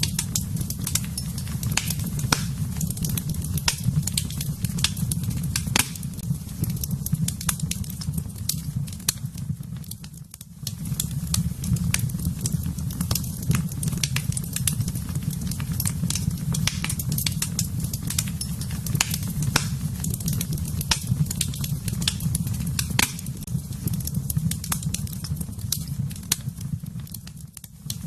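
Fire burning in a fireplace, crackling steadily with many irregular sharp pops over a low, constant rumble of flame. The sound briefly dips in level twice, about ten seconds in and near the end.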